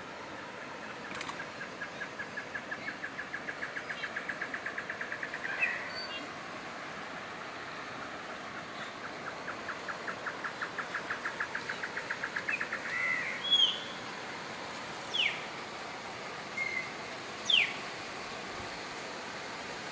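Wild birds calling: twice a long, steady series of pitched notes at about five a second, each series ending in a chirp, then a few short, sharp calls sliding down in pitch. A steady hiss lies underneath.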